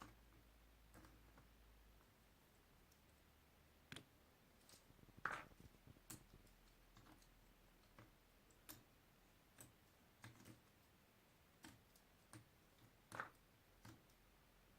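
Faint, irregular clicks and taps of puzzle pieces being handled and set down, with a louder click about five seconds in and another near the end.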